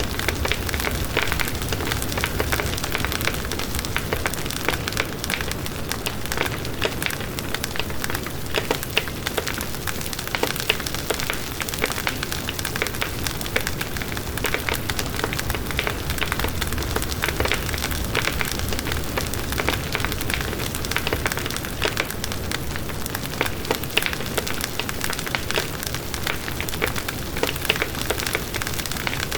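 Campfire burning with steady crackling and frequent sharp pops of burning wood over a low rushing hiss.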